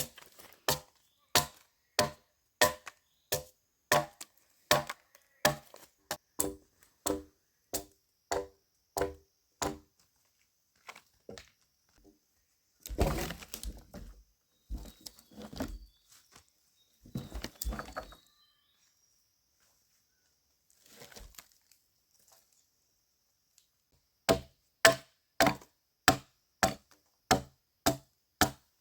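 Wood being chopped with a bladed hand tool, steady strikes about one and a half a second. Partway through the strikes stop for a stretch of cracking and rustling, then start again at a faster pace near the end.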